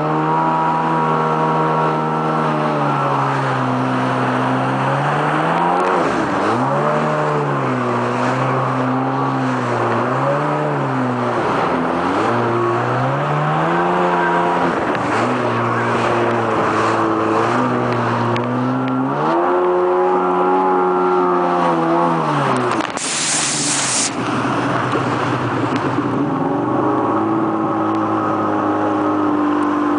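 Jet ski engine running hard, its pitch climbing and falling over and over as the throttle is opened and eased off, with several sharp dips. About 23 seconds in comes a sudden burst of hiss lasting about a second.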